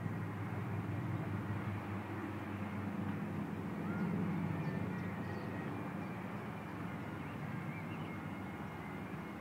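Piston engines of Second World War propeller aircraft running overhead in a flypast, a steady low drone that swells slightly about four seconds in.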